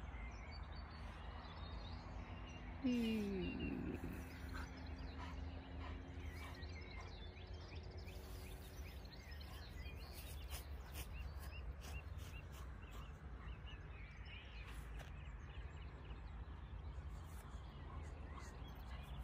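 Wind rumbling on the microphone on an open hilltop, with faint scattered birdsong. About three seconds in, a single short falling voice-like call stands out, its tone hanging on faintly for a few seconds.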